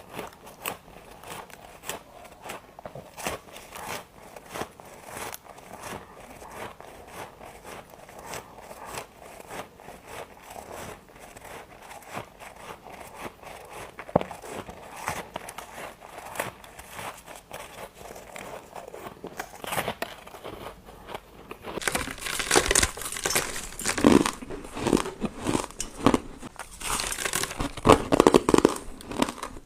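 Ice being bitten and chewed close to the microphone: a run of short, brittle crunches and crackles. The crunching is soft at first and grows much louder and denser about two-thirds of the way through.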